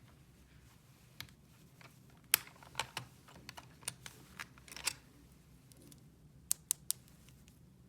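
Light clicks and taps of small hard objects being handled: a scattered run of clicks for a couple of seconds, then three sharp clicks in quick succession near the end.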